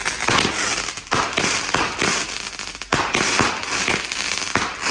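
Seven-shot 'Heat Wave' firework cake going off: a loud, dense crackling studded with sharp bangs.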